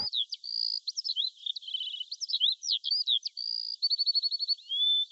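Birds chirping and whistling: a chorus of short, thin, high chirps and quick whistled glides, with a fast trill of repeated notes near the end.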